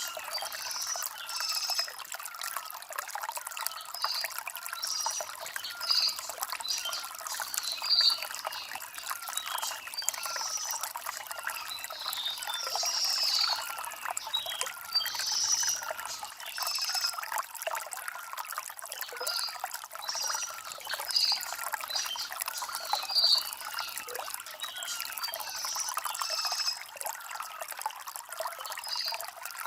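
Clear water trickling and gurgling over river stones in a shallow stream, a steady light splashing with many small gurgles, and no low rumble.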